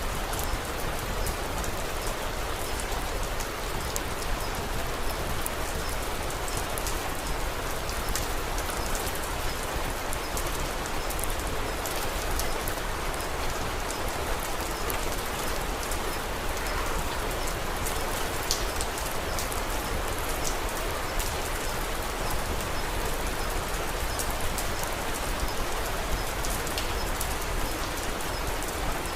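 Steady rain falling, mixed with the scattered small ticks and pops of a crackling wood fire.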